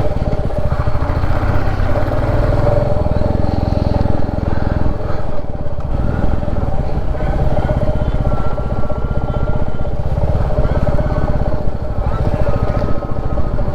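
Royal Enfield Classic 350's single-cylinder engine and exhaust thumping steadily as the motorcycle is ridden along.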